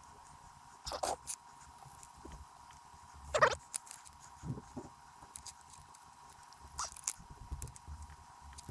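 Scattered small clicks, taps and scrapes of tools, wires and small parts being handled at a workbench during decoder soldering, the loudest about three and a half seconds in, over a faint steady high tone.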